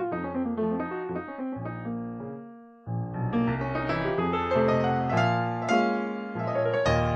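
Solo piano playing a jazz piece, struck notes and chords ringing and dying away; the playing thins to a brief pause about two and a half seconds in, then resumes.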